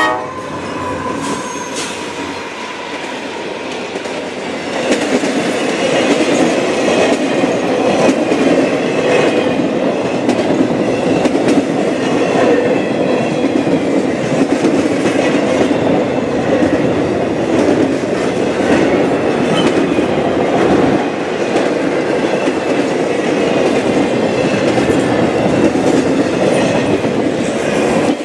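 CSX intermodal freight train, truck trailers on flatcars, rolling past close by: a steady, loud rumble of steel wheels on rail with clickety-clack over the rail joints, growing louder about five seconds in.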